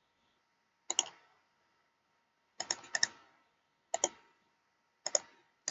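Sparse clicking of a computer keyboard and mouse: single clicks and a short run of three, each a quick double tick, spaced about a second apart.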